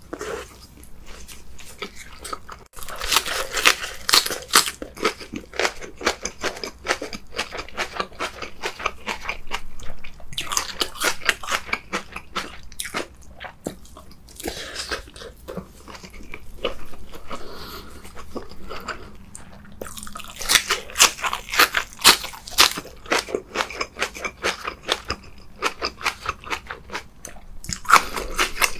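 Close-miked crunchy chewing of cabbage kimchi leaves with rice, in bouts of dense crisp crunches with quieter chewing between.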